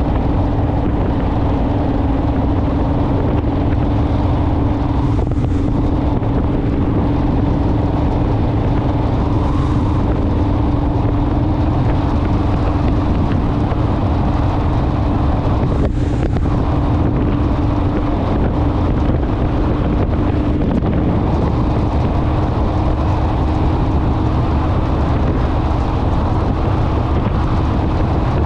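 Honda Rebel parallel-twin motorcycle engine running at a steady cruising speed, with a constant engine note under heavy wind rush on the microphone.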